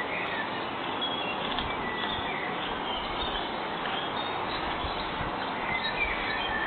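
Steady hiss of background noise picked up by a security camera's microphone, with a few faint, high, short bird chirps.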